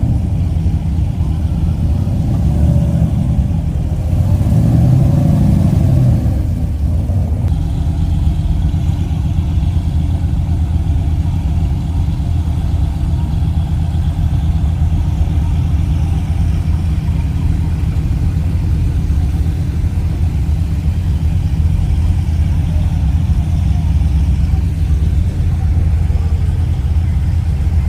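Car engine running with a steady low rumble, briefly rising and falling in pitch about four to seven seconds in.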